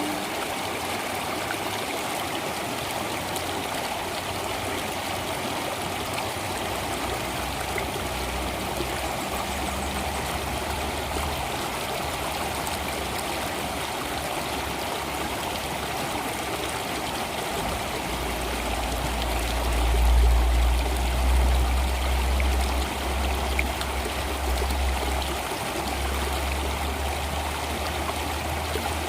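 Flowing water running steadily, with a low rumble underneath that comes in twice and is loudest a little past the middle.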